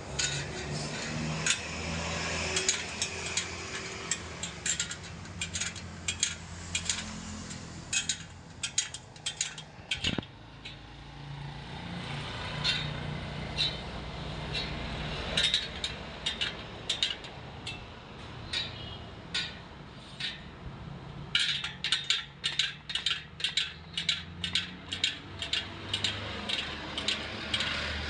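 Quick metallic clicks and clinks of tools and metal parts being worked on a spoked motorcycle wheel, coming in runs of several a second that are densest in the last seven seconds, over a low steady hum.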